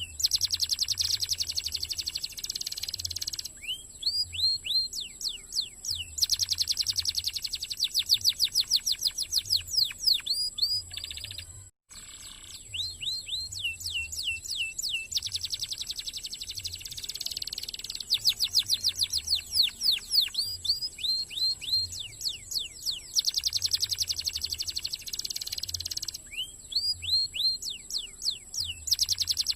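Canary singing a fast, dense song: phrases of quickly repeated downward-slurred notes alternate with long rapid rolling trills, separated by short pauses. The sound cuts out briefly about twelve seconds in.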